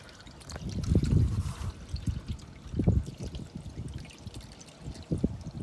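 Used engine oil mixed with motor flush draining from the oil pan of a Chevy 5.3 V8, pouring and splashing with heavier gurgling surges about one, three and five seconds in.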